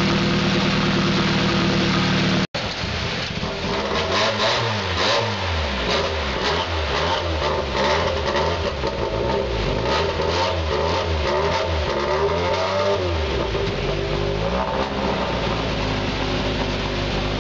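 A Porsche 911 rally car's air-cooled flat-six idles steadily for the first couple of seconds. Then a second classic rally car's engine is blipped, revving up and falling back over and over, and settles into a steady idle about 13 seconds in.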